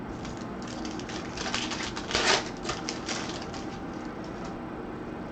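Trading cards being handled and flipped through, a flurry of quick clicks and rustles that is loudest about two seconds in.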